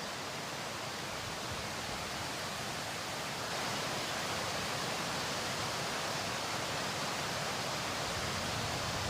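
Floodwater rushing: a steady noise that gets a little louder about three and a half seconds in.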